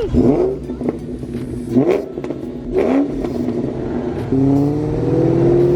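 Ford Mustang V8 engine revved in short blips, each rising and falling quickly, then pulling under steady throttle with its pitch slowly climbing as the car accelerates.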